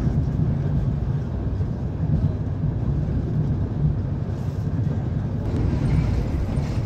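Steady low rumble of a moving passenger train heard from inside the carriage, wheels running on the track. A lighter hiss joins in about five and a half seconds in.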